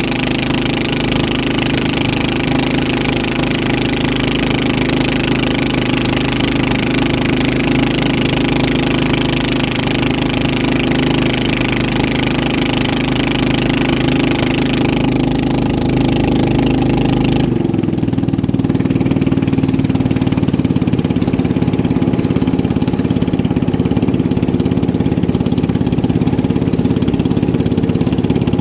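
Racing boat engines running steadily. About two-thirds of the way through the sound switches abruptly to a lower, slightly louder engine note.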